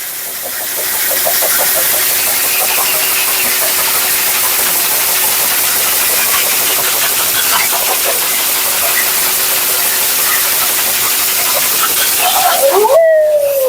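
Pet-grooming blow dryer blowing a steady hiss of air with a faint motor hum, drying a husky's thick double coat; it rises in level about half a second in and cuts off suddenly near the end, after which the husky starts a howl whose pitch slides downward.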